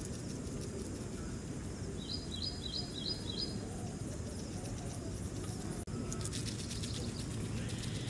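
A small bird singing a quick run of five short, high, repeated chirps about two seconds in, over steady low outdoor background noise.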